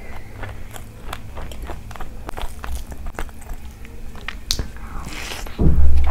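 Close-miked eating of rice and curry by hand: a steady run of wet chewing and lip-smacking clicks, with a loud low thump just before the end.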